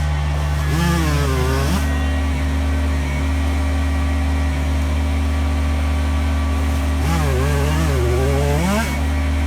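Kubota BX23s sub-compact tractor's three-cylinder diesel engine running steadily under work, with a wavering tone that rises and falls about a second in and again from about seven seconds in.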